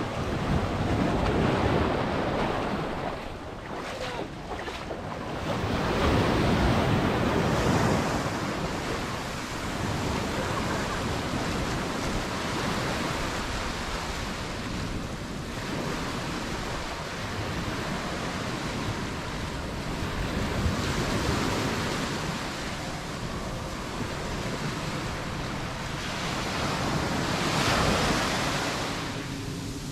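Mediterranean surf breaking and washing up the beach in repeated swells every few seconds, with some wind on the microphone.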